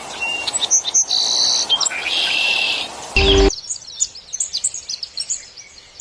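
Birds calling and chirping: a few clear whistled notes and buzzy calls, a short loud call about three seconds in, then an abrupt change to many quick, high chirps.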